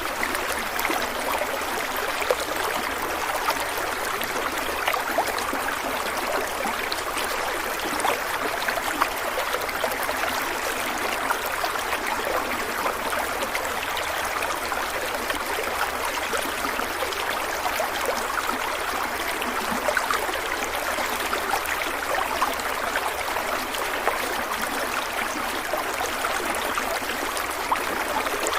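Stream of water running and trickling steadily, a continuous splashing rush with fine gurgles throughout.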